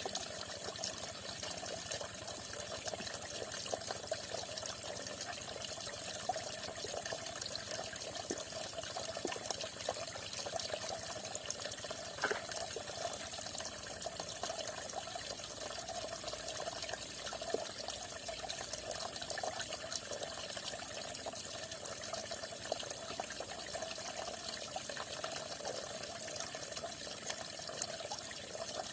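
Falling water splashing steadily, a continuous trickle with small scattered drips and plinks.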